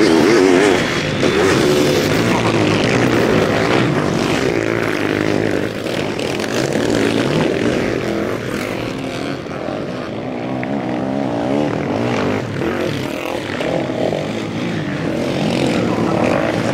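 Sidecar motocross motorcycle engines running hard, their pitch rising and falling with the throttle.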